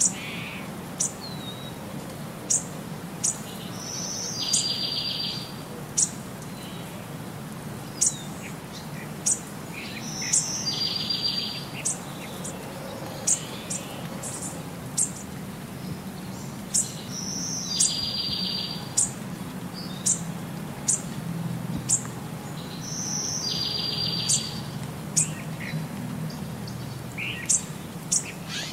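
Birdsong: short, sharp high chirps every second or so, with a buzzy trill that comes back every six or seven seconds in the same pattern, over a low steady hum.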